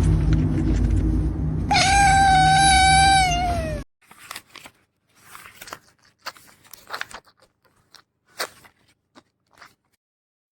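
Kitten giving one long meow of about two seconds, dropping in pitch at the end, over loud low rumbling noise that cuts off suddenly. Faint scattered ticks and rustles follow.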